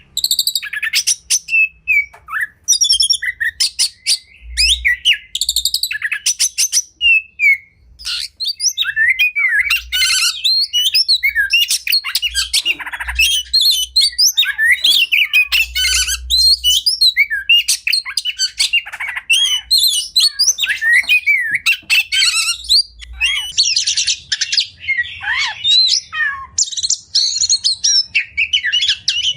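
Oriental magpie-robin (kacer) singing a long, varied song: fast runs of short, sharp, clicking notes at first, then a dense stream of whistled phrases, slurred notes and mimicked calls, with no pause.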